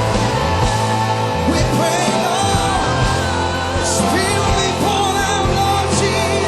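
Live church worship band playing loud, steady music with sustained bass notes and cymbal crashes, while voices sing and call out without clear words.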